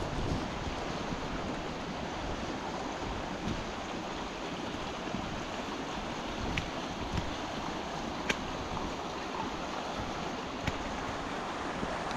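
Steady rush of a stream in full spate mixed with heavy rain, with a few faint taps about halfway through and later.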